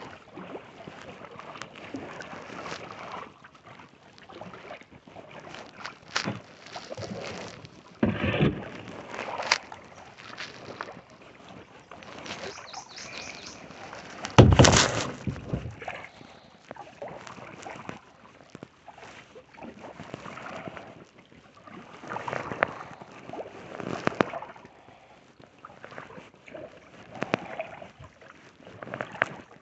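Kayak paddle strokes in lake water: irregular sloshing and splashing every second or two, with one much louder burst about halfway through.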